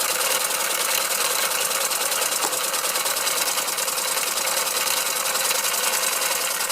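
Small 1912 hand-built oscillating model engine running on compressed air, driving a line shaft and toy workshop models: a steady, fast, even mechanical beat of the engine and its running gear.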